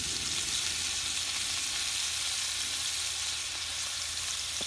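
Food sizzling steadily in a frying pan, a continuous even hiss.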